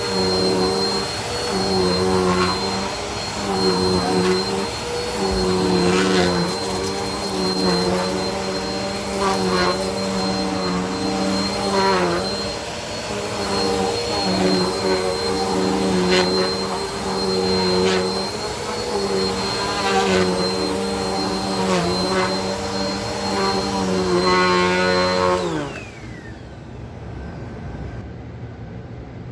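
Bissell vacuum cleaner running on carpet, picking up spread-out dirt: a steady high whine over a motor hum whose note dips every second or two, with scattered sharp ticks. About 25 seconds in it is switched off and the motor winds down with a falling pitch.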